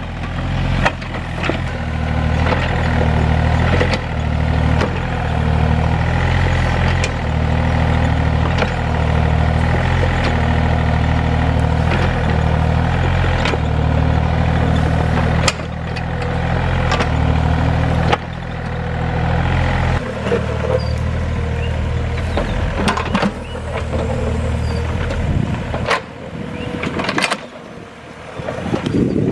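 Excavator's diesel engine running steadily, with sharp knocks every few seconds. The engine sound drops away about two-thirds of the way through, leaving lighter, uneven noise.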